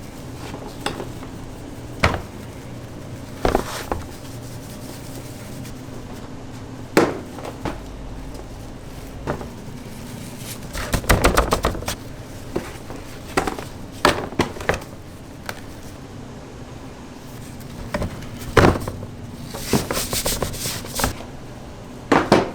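Irregular knocks and chopping on a wooden surface, some single and some in quick clusters, over a steady low hum.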